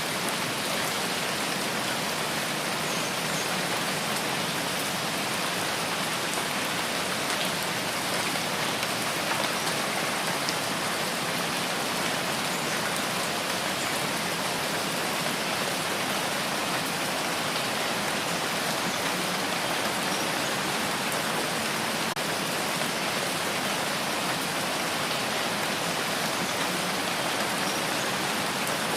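Steady rain falling, a constant hiss of many drops with faint individual drop ticks, even in level throughout.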